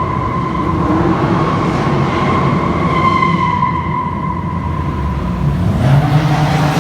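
Car engines running with a low rumble under a steady high-pitched whine; the rumble swells near the end as an engine revs.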